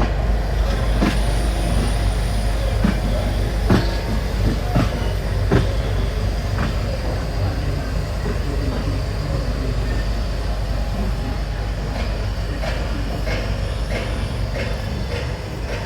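Passenger express train running on the track: a steady low rumble with irregular sharp clacks of the wheels over rail joints, most of them in the first six seconds and again near the end.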